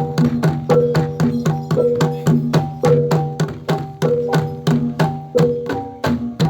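Javanese jathilan gamelan music: struck, pitched metal percussion and hand drums playing a fast, steady rhythm, several strokes a second, each note ringing briefly.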